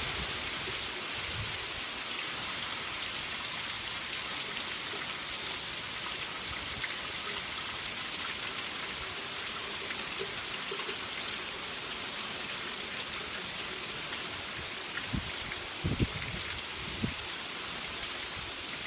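Steady rain falling, an even hiss, with a few soft thuds near the end.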